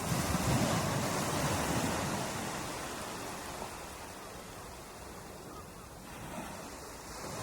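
Ocean surf breaking on a beach: a wave crashes at the start and washes out, fading over several seconds, and the next wave swells near the end.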